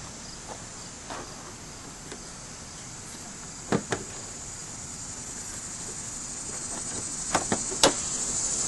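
Steady high-pitched insect chorus that grows louder toward the end, with a few sharp clicks: two about four seconds in and three close together near the end.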